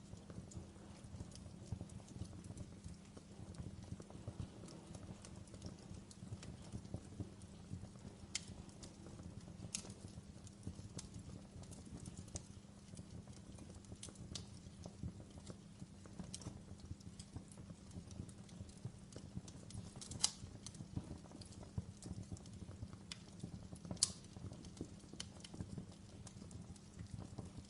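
Wood logs burning in a fireplace: a steady low rumble under constant small crackles, with two louder, sharper pops about twenty and twenty-four seconds in.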